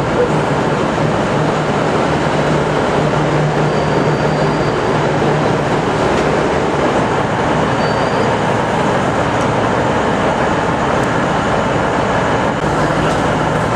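V/Line VLocity diesel railcar running at the platform: a steady diesel drone with a low hum.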